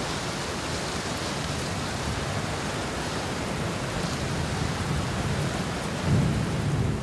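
Thunderstorm: steady rain falling with low rolling thunder rumbling underneath, the rumble swelling louder about six seconds in.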